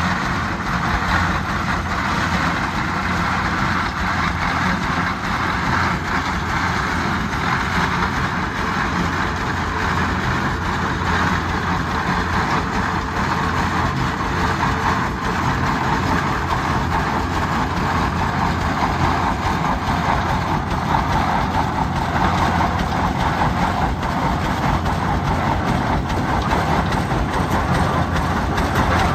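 Antique tractor engine running steadily at a low, even speed.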